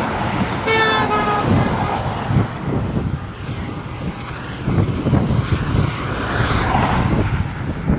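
Road traffic passing with a steady rumble of tyres and engines. About a second in, a vehicle horn toots once, for about a second.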